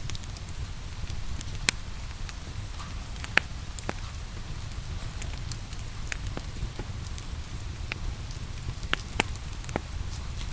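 Wood fire crackling, with irregularly spaced sharp pops and snaps over a steady low rumble, mixed with the even hiss of steady rain.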